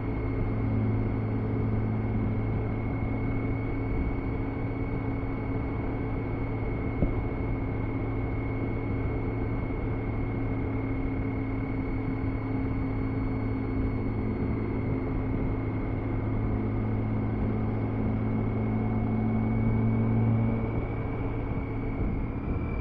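BMW K1600B's inline-six engine running steadily while the motorcycle cruises, with road and wind noise and a thin steady high whine over it. The pitch stays even, swelling slightly about twenty seconds in.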